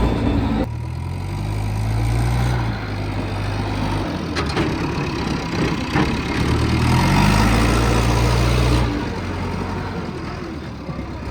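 Heavy diesel engine of earth-moving machinery running, revving up and settling back twice, with a short sharp knock about four and a half seconds in.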